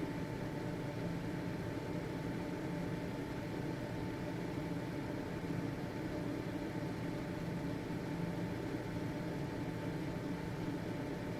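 Household ventilation fan running steadily: an even motor hum with a faint high whine over a rush of air.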